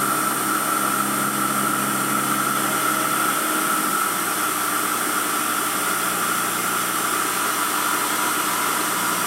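Emco F1 CNC milling machine running, with a steady high spindle whine over a constant hiss. A lower motor hum changes and drops away about three and a half seconds in.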